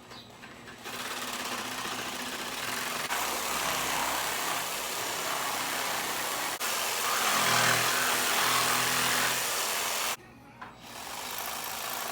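Jigsaw cutting through a 2x4 side bar, running steadily for about nine seconds. It stops briefly about ten seconds in, then runs again more quietly.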